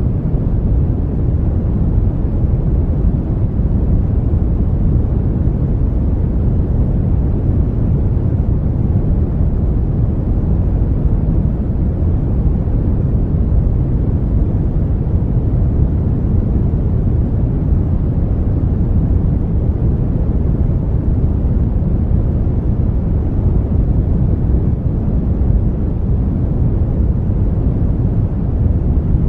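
Brown noise: a steady, deep rumbling hiss with most of its energy in the low end, falling away toward the treble, unchanging throughout.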